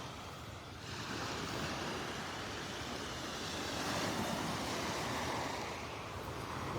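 Small Gulf of Mexico waves washing onto a sandy beach: a steady noise of surf that swells and eases a little.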